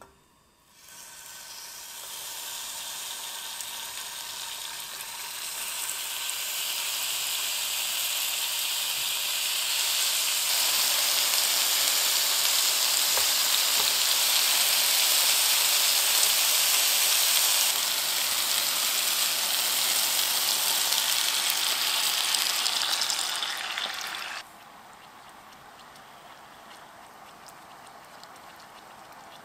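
Chicken skewers of thigh meat, green onion and rice cake sizzling as they fry in hot oil in a frying pan. The sizzle starts about a second in as the first skewer goes in and grows louder as more are added. Near the end it drops suddenly to a softer sizzle, once the chicken has browned.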